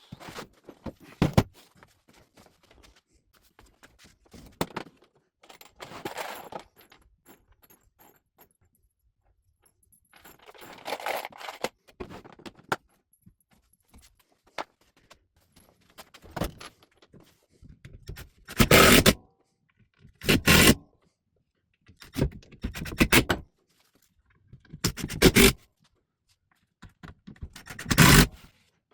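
Intermittent scraping and handling noises of shop work on a wooden dust shroud. There are soft scrapes early on and several short, loud bursts of about a second each in the second half.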